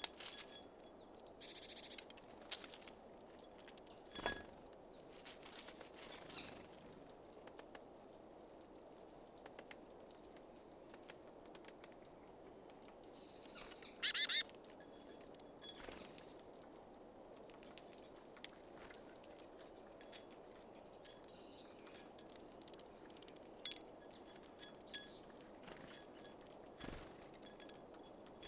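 Small songbirds at a seed feeder: scattered light taps and clicks with brief wing flutters, and one short, loud rustle about halfway through, over a faint steady background hiss.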